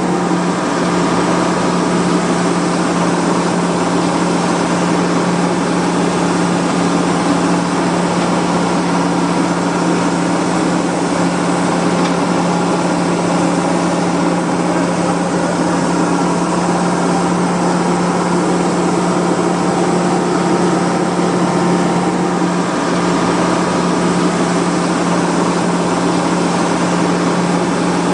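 A small motor running steadily, a constant unchanging hum.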